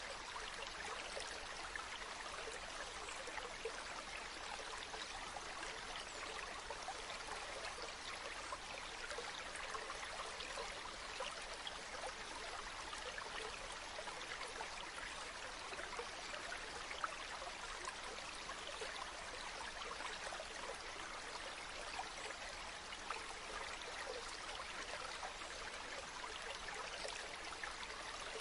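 Running water: a steady, even rush with fine splashing detail.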